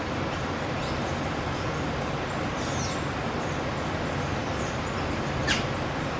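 Steady background traffic noise with a few short, high bird chirps; the sharpest, a quick falling call, comes about five and a half seconds in.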